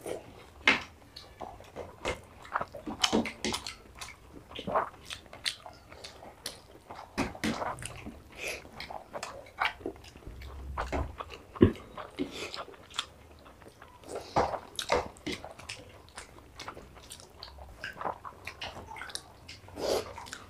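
Close-miked chewing and lip smacking of people eating rice and mutton curry by hand, with the soft squish of fingers mixing rice on plates. The clicks and smacks come irregularly throughout.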